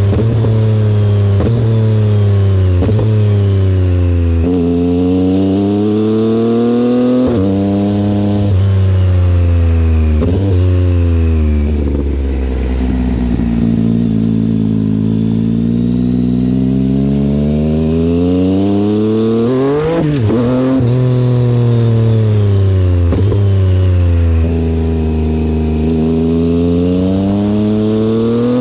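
2022 Yamaha XSR900's inline three-cylinder engine through a Kelpi aftermarket exhaust, riding along. The note climbs and is cut by quick gear changes several times, eases off to a low steady tone around the middle, then builds again through more shifts.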